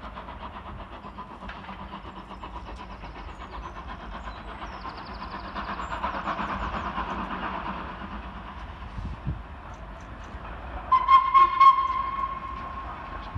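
Pair of LMS Jubilee-class steam locomotives working a train through the station, a steady running noise that swells and eases in the middle. Near the end a locomotive whistle sounds in a short blast of a second or so.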